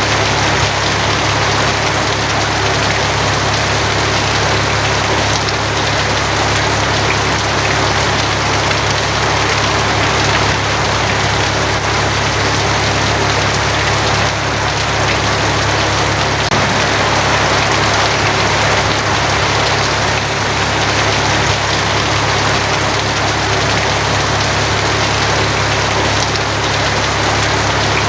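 Steady heavy rain drumming on a tin roof, an even hiss with a constant low hum underneath.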